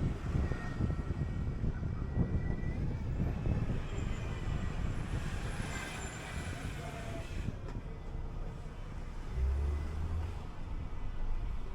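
City bus in motion: steady engine and road rumble with a faint high whine in the first few seconds and a short low thump about ten seconds in.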